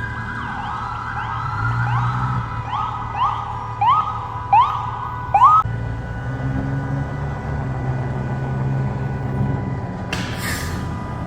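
Emergency vehicle siren: a long wail sliding down, then a series of quick rising whoops that speed up and stop about six seconds in, over the low rumble of a heavy engine. A short hiss sounds near the end.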